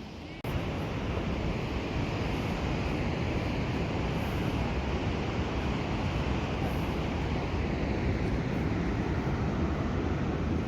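Steady rushing noise of a mountain river running through the gorge, with a click and a brief drop-out at the very start.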